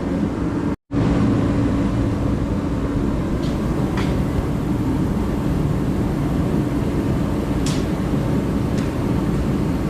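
A vehicle engine running with a steady low drone, broken by a brief cut in the sound just under a second in, with a few faint clicks.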